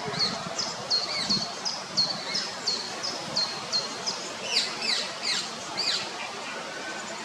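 Songbird calling: a run of short, high chirps about three a second, then a few quick falling notes, over steady background noise.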